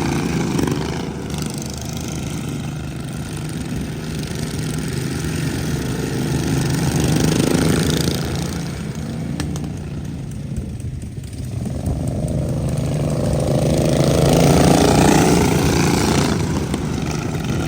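Racing lawn mower engines running hard on a dirt track. Late on, one engine note rises and then falls.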